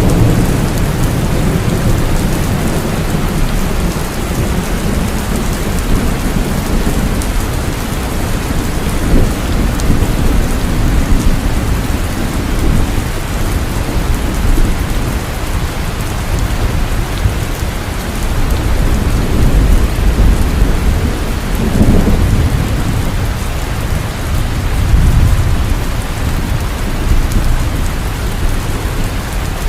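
Heavy, steady rainfall with rolling thunder rumbling underneath, swelling and easing several times.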